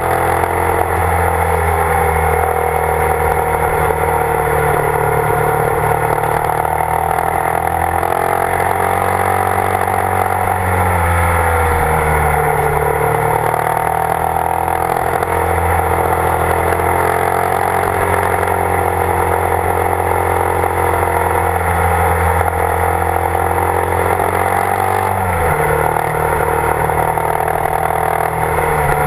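Motorcycle engine running under way, its pitch dipping and climbing back a few times as the throttle is eased and reopened through the bends.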